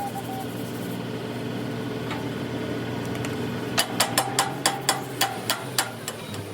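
A machine hums steadily. About four seconds in, a quick series of about nine metal-on-metal hammer strikes on steel comes at roughly four a second, each with a brief ring.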